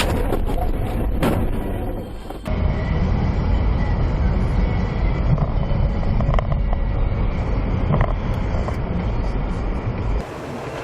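Dashcam audio of a car driving: a steady low rumble of engine and road noise inside the cabin, changing abruptly about two and a half seconds in.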